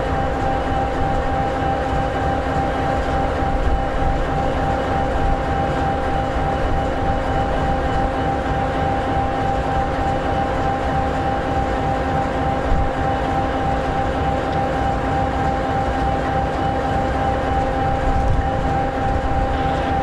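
EMD SD60E locomotive's 16-cylinder two-stroke EMD 16-710G3B diesel idling: a steady rumble with an even whine over it, unchanging throughout.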